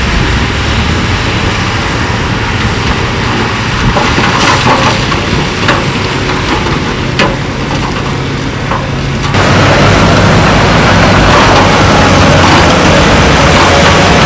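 Heavy earthmoving machinery's diesel engine running steadily, with a few sharp knocks and cracks of rock through the middle. The sound grows fuller and louder about nine seconds in.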